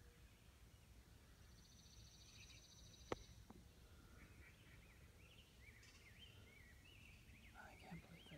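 Faint outdoor ambience with small birds chirping, wavering high calls from about halfway through, after a rapid high trill of a second and a half. A single sharp click about three seconds in.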